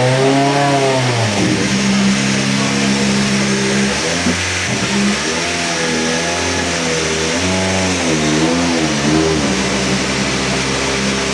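Rally car engine being revved in blips, its pitch rising and falling several times, between stretches held at steady revs.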